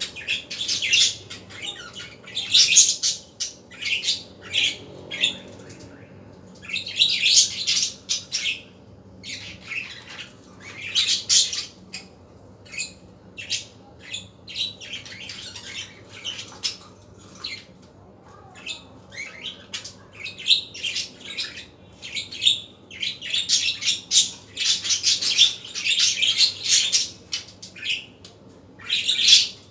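Budgerigars chirping and warbling in quick bursts of short, high notes, with brief lulls between bursts.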